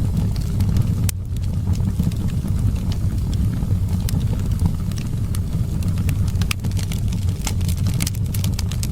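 Wood fire crackling in a fireplace, with scattered sharp pops and snaps over a steady low rumble of wind.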